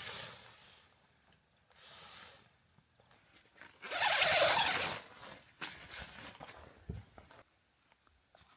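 Dry rustling and crunching in forest litter: a few short bursts, the loudest about four seconds in, then smaller crackles that stop about a second before the end.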